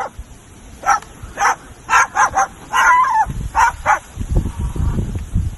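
Cockatoo mimicking a dog, giving a string of short barks, about seven in the first four seconds. A low rumbling noise comes in after about three seconds.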